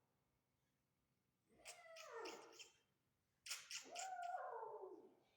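A kitten meowing twice, each call drawn out and falling in pitch; the second is louder.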